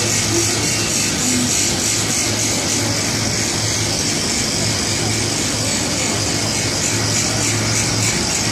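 Steady hum and hiss of an electric commuter train standing at the platform, its on-board equipment running.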